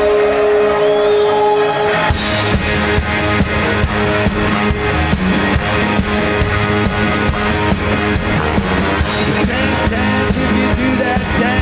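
Rock band playing live, with guitars and drums: a song's instrumental intro. A single held note opens it, and about two seconds in the drums and the full band come in with a steady beat.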